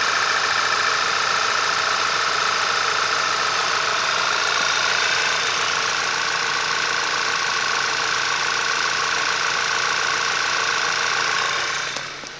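2010 Skoda Octavia RS's 2.0-litre turbocharged four-cylinder TSI petrol engine idling steadily, heard from over the open engine bay. It fades down near the end.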